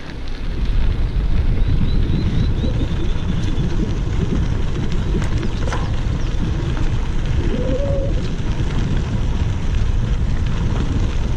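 Wind buffeting the microphone of a moving bicycle rider, a loud, steady low rumble, with a bird's short trill of quickly repeated high notes about two seconds in.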